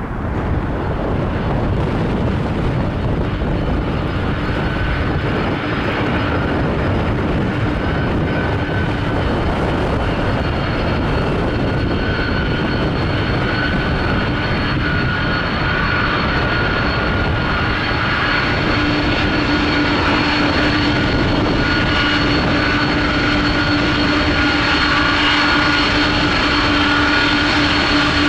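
Boeing 767-300F freighter's twin turbofan engines running at low power as the aircraft comes off pushback and starts to taxi: a steady rumble with high whining tones over it. A lower hum joins about two-thirds of the way through as the sound grows slightly louder.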